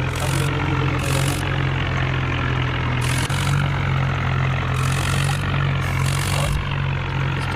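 Tractor's diesel engine running steadily, with a deep, even note. Short spells of hiss come and go every second or two.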